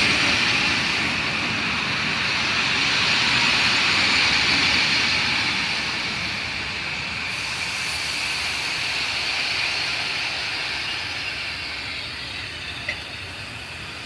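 A train running past on the line, a steady rushing noise that slowly fades as it moves away, with one short click near the end.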